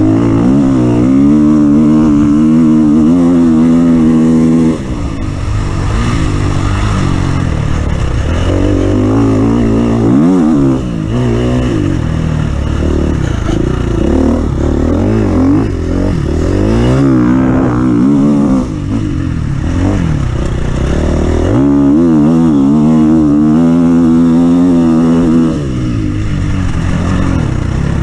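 Off-road vehicle engine running hard, its pitch climbing and falling again and again as the throttle is opened and eased off, with brief drops in loudness several times.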